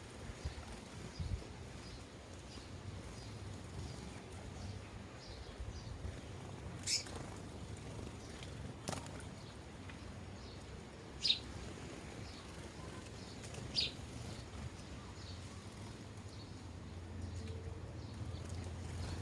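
Sparrows chirping at bird feeders: faint, scattered short chirps with three louder ones spread through, over a low steady hum. A single sharp click about nine seconds in.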